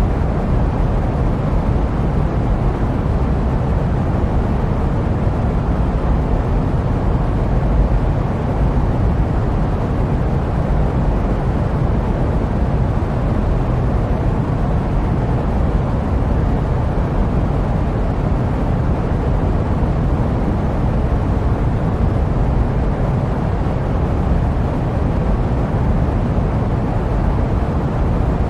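Steady jet-aircraft noise used as sleep white noise: an even low drone weighted to the bass, with no changes in pitch or level.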